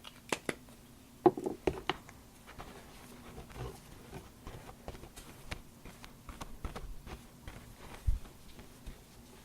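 Irregular light clicks and taps from craft supplies being handled on a tabletop, with a few sharper clicks in the first two seconds.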